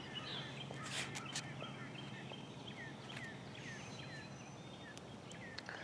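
Faint outdoor ambience with birds chirping: many short, downward-sliding chirps repeating throughout, with a couple of light clicks about a second in.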